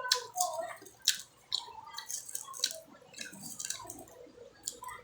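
Wet mouth sounds of eating ripe mango: chewing and lip smacks, with many sharp clicks.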